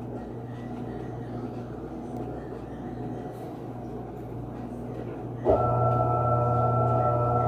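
Panasonic 14 kg top-loading washing machine idling between stages after draining: a low steady hum, then about five and a half seconds in its motor starts abruptly with a louder steady hum and whine.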